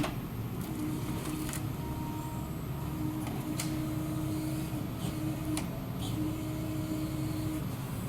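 Diesel engine of a 0.25-class excavator-based forestry harvester running steadily, with a held tone that comes and goes several times and a few faint ticks.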